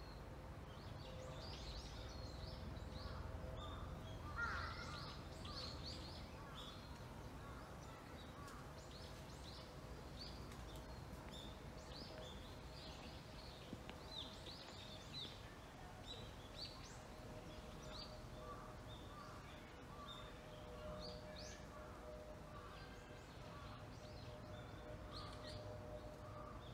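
Garden ambience of small birds chirping, short high calls scattered throughout, with one louder, lower call about four seconds in, over a low rumble and a faint steady hum.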